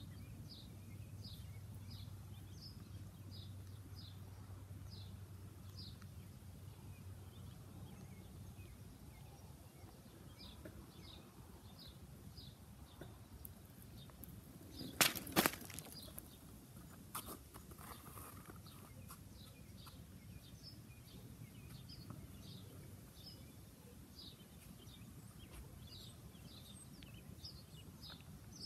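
A bird calling outdoors, repeating a short high chirp over and over in long runs, one or two a second. A low steady hum fades out about a third of the way in, and two sharp knocks a moment apart, the loudest sounds, come about halfway through.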